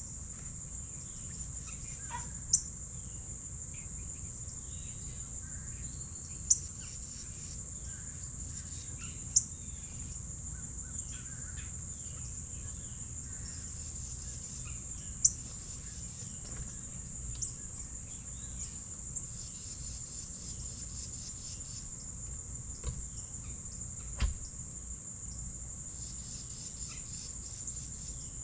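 Steady, high-pitched insect chorus, with faint scattered bird chirps and several sharp taps or clicks.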